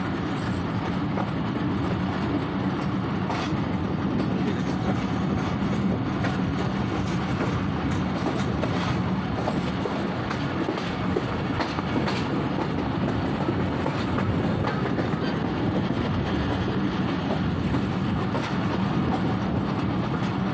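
Thal Express passenger train carriage running along the track, a steady rumble with the wheels clicking irregularly over rail joints, heard at an open carriage door.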